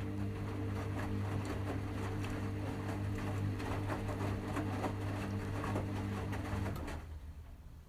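Washing machine running on a delicates wash: a steady motor hum with water sloshing and clattering inside the drum, which stops about seven seconds in.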